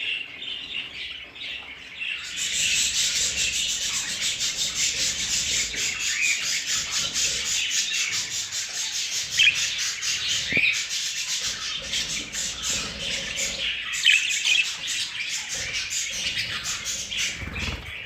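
Budgerigars chirping, with a dense, rapid, scratchy rasping noise joining in about two seconds in and running on under the chirps.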